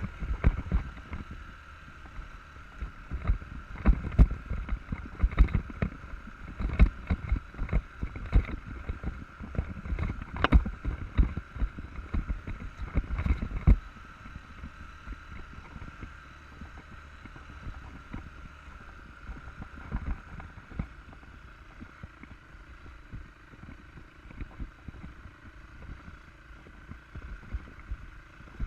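Enduro dirt bike's engine running at a steady pitch. Dense low thumps and knocks on the microphone play over it and ease off about fourteen seconds in.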